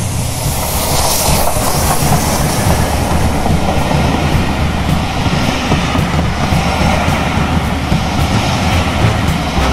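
Train running past on its rails: a steady, loud rolling noise of wheels and coaches going by.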